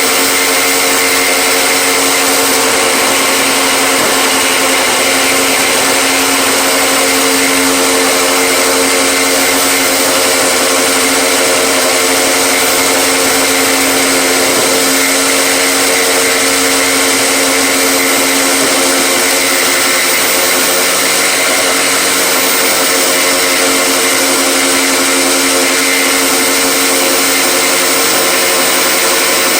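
An electric power tool's motor running steadily and loudly, with a constant hum and no change in load.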